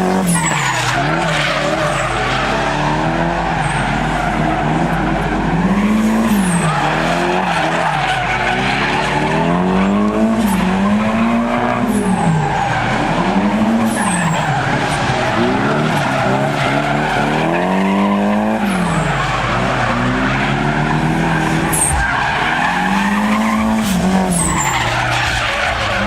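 Car engine revving up and down over and over, about every one to two seconds, while its spinning rear tires skid and squeal in a burnout.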